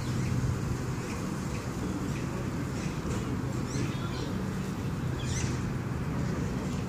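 Birds chirping in short, high calls with quick pitch sweeps: a cluster about halfway through and another near the end, over a steady low background rumble.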